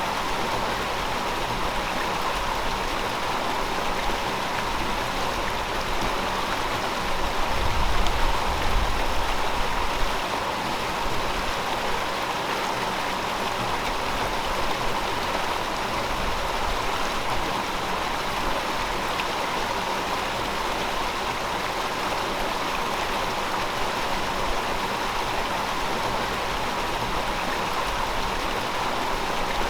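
River water flowing steadily over rocks, an even rushing babble, with a brief low rumble swelling up about a quarter of the way in.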